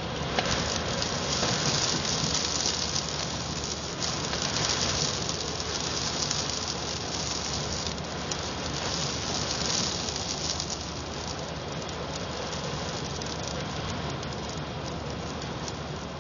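Sandstorm: strong wind driving sand and grit against the building, a dense hissing patter that swells in gusts during the first ten seconds and eases a little after that.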